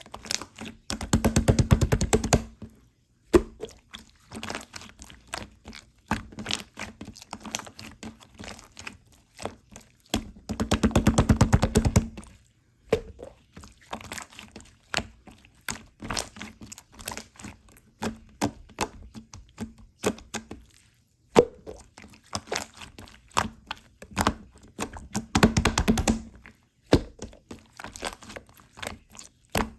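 Slime being squished and poked by hand, making a steady run of wet clicks and pops. There are three spells of fast, dense crackling: about a second in, around ten seconds in, and again near the end.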